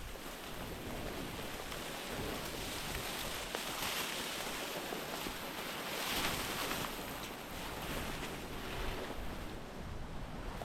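Wind buffeting the microphone, a steady rushing noise that swells about four and again about six seconds in.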